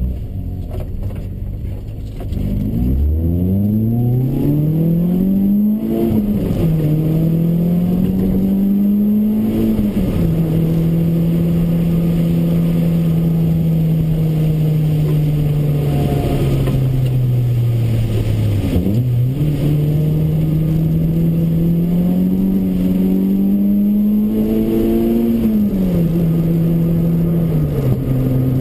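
Toyota Corolla AE93's 4A-GE 20-valve four-cylinder engine heard from inside the cabin. It idles, then pulls away and revs up through the gears, with upshifts about 6 and 10 seconds in. It then holds a steady speed, drops off briefly about two-thirds in, and climbs again to another upshift near the end.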